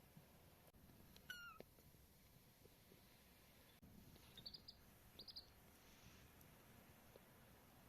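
A kitten meows once, faintly, about a second and a half in. Around four to five and a half seconds in, a baby chick gives two quick runs of short, high peeps.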